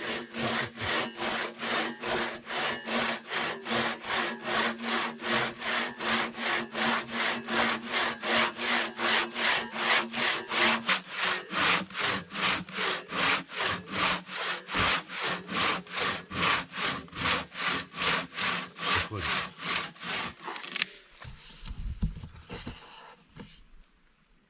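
Hand saw cutting firewood with quick, even back-and-forth strokes, about three a second. The sawing stops about 21 seconds in, followed by a few faint knocks.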